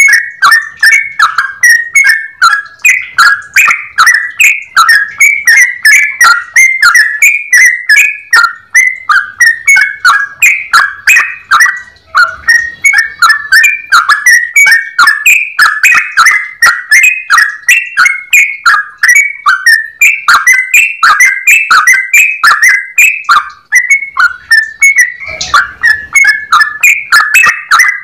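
Yellow-vented bulbul (trucukan) singing a long, unbroken run of rapid, clear, bubbly whistled notes, several a second. A brief low thud comes near the end.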